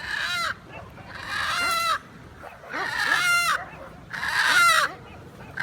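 Chicken screaming in loud, harsh squawks, four of them about one every second and a half, each ending in a falling note, with soft clucks in between.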